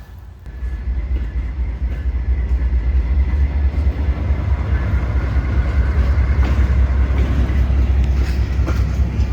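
Amtrak passenger train led by a Siemens ALC-42 Charger diesel locomotive rolling past slowly. Its engine and wheels make a loud, steady low rumble that swells about half a second in.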